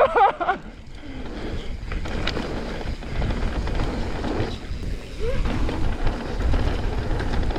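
Mountain bike riding down a wet dirt trail: wind buffeting the microphone over the rumble and rattle of tyres on the trail. The noise grows louder after about a second.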